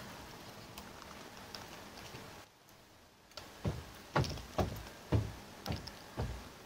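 Close-miked chewing with the mouth closed: six soft, evenly spaced thuds about twice a second, preceded by faint rustling as food is handled on a bamboo skewer.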